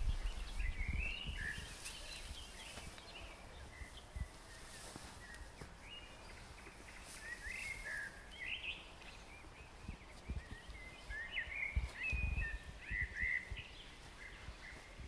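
Songbirds chirping and twittering in short repeated calls over an open meadow, with brief low rumbles near the start and again about twelve seconds in.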